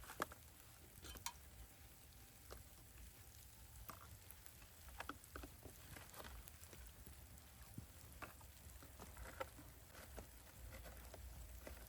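Faint, irregular light taps and clicks over a low rumble.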